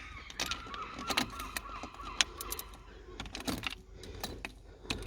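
Sharp metallic clicks and knocks of hand tools and parts being handled, with a rapid repeated honking call in the background that fades out about two seconds in.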